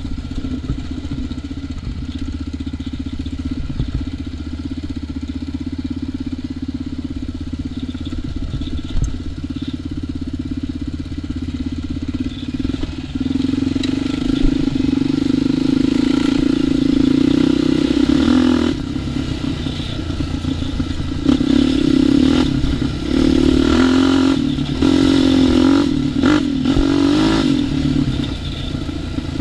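ATV engine running at a steady low throttle, then pulling harder from about halfway, with the throttle opened and closed several times in the last few seconds.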